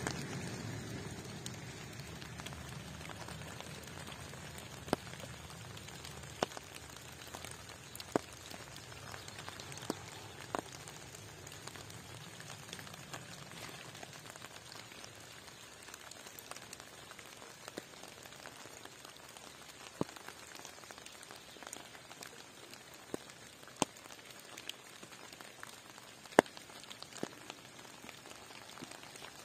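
Light rain: a steady soft hiss with scattered single drops ticking sharply on a nearby surface at irregular intervals.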